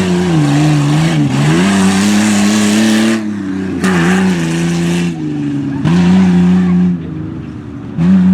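A tough-truck competition truck's engine running at high revs under hard throttle. The throttle is lifted and opened again several times: first a long pull of about three seconds, then shorter bursts of about a second each.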